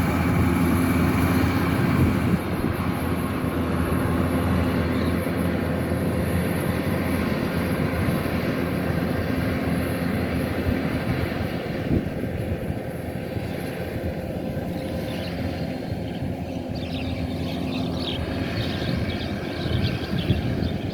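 Diesel engine of a Kubota DC-105X combine harvester running steadily under load, a continuous low drone whose level eases slightly in the second half.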